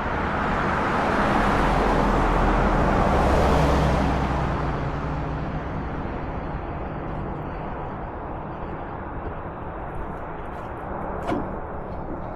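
A passing vehicle's road noise, swelling to a peak about three and a half seconds in and then slowly fading, over a steady low hum, with a small knock near the end.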